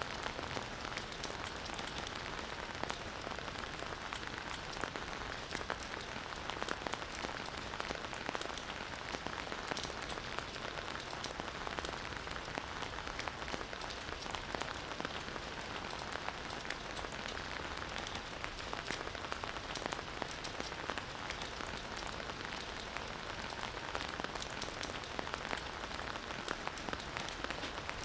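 Campfire burning with a steady crackle and frequent sharp pops of the wood.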